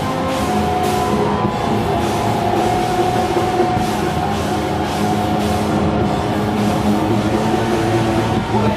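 Live band playing loud experimental heavy metal, a dense steady wall of sound with held notes and drums.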